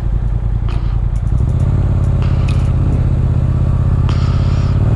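Motorcycle engine running while riding, a steady low engine note that grows a little louder and steadier about a second in.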